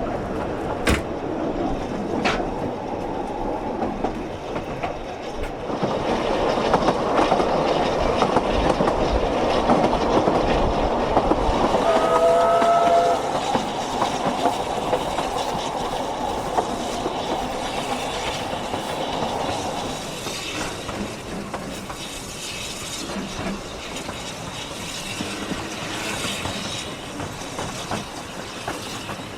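Ffestiniog Railway narrow-gauge train running along the line with a steady rumble and clatter of wheels on rails, and one short toot of its whistle about twelve seconds in.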